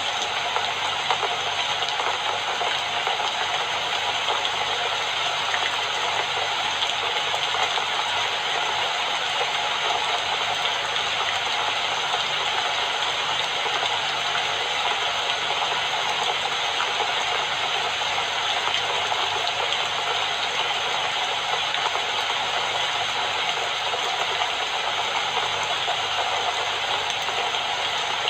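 Steady rain falling: an even, unbroken hiss of dense fine patter.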